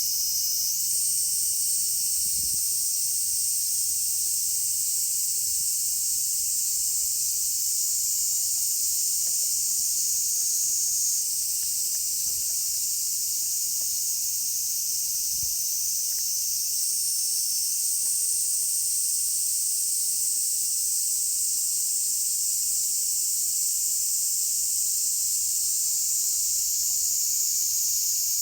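Cicadas buzzing in a dense, steady summer chorus, a continuous high-pitched sizzle. A still higher-pitched layer comes in about a second in, drops out near the middle, and returns later.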